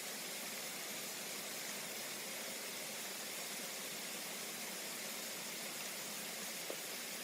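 Steady, even hiss, with one faint click near the end.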